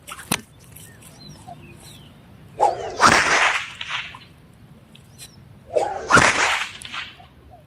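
A 1.8 m Pecut Malangan whip braided from polyester cord cracked twice, about three seconds apart, each sharp crack coming straight after the swish of the swing.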